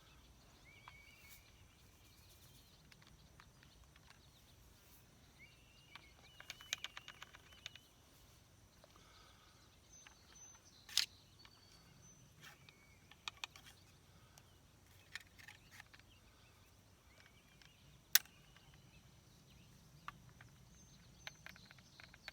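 Birds chirping in short calls, with a few sharp clicks; the two loudest clicks come about eleven and eighteen seconds in.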